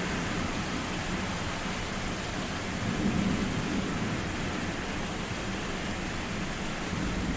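Thunderstorm: steady rain falling under a low rolling rumble of thunder, which swells briefly about three seconds in.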